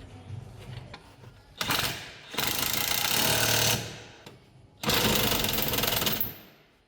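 A power tool runs in three bursts, a short one then two longer ones of about a second and a half, each starting and stopping abruptly.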